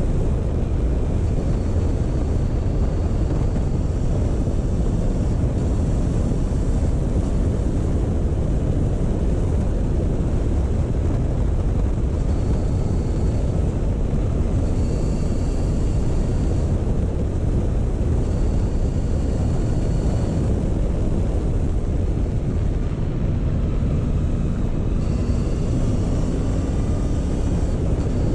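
Motorcycle ridden at a slow pace: a steady low rumble of engine and wind noise, with a faint rise in engine pitch near the end.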